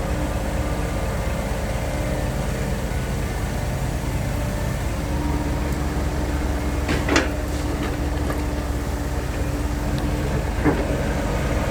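Dump truck diesel engine running steadily, a deep rumble with a steady hum over it, and two short clunks, one about seven seconds in and one near the end.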